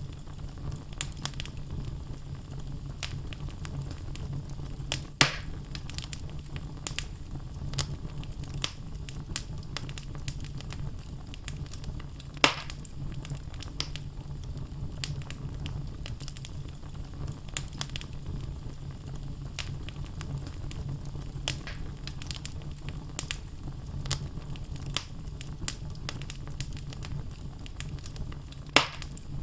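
Wood fire burning in a fireplace: logs crackling with frequent small clicks over a steady low rumble, and three louder pops, the last near the end.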